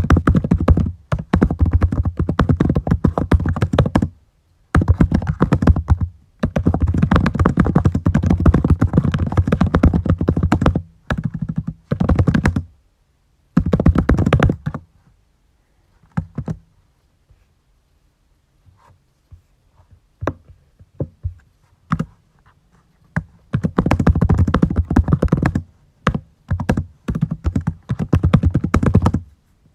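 Typing on a computer keyboard in fast runs of keystrokes, broken by short pauses and one longer lull in the middle with only a few scattered key presses, then a fresh run near the end.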